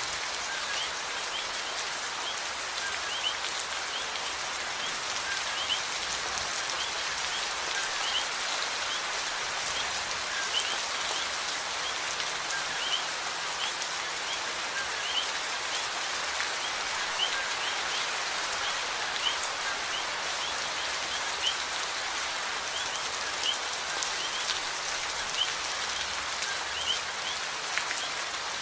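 Steady rain falling, with an even hiss and scattered louder drops. A short high chirp repeats about once a second throughout.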